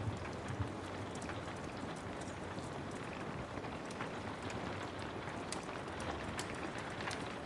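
Steady rain falling, with a wood fire crackling: scattered sharp pops and snaps over the even hiss of the rain.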